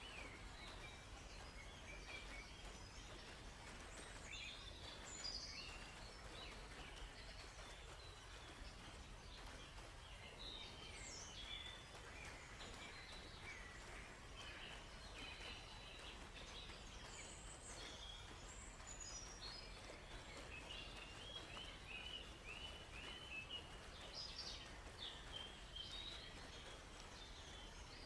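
Several songbirds chirping and trilling in short scattered calls, with a quick run of repeated chirps past the middle, over a faint steady hiss.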